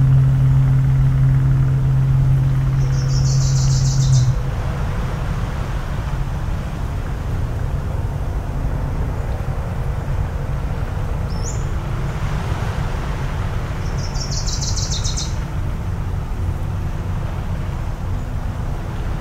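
A low, steady-pitched foghorn blast that cuts off about four seconds in, over a constant low rumble. A bird gives two short, rapid, high trilled calls, one about three seconds in and one about fourteen seconds in.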